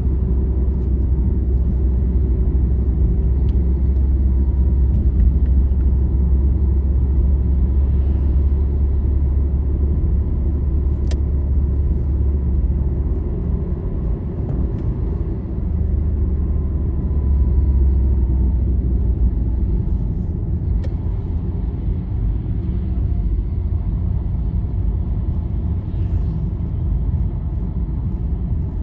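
Steady low road and engine rumble of a vehicle travelling on a highway, heard from inside it. The deep rumble eases a little about halfway through, then swells again, with a faint steady whine above it and a single sharp click.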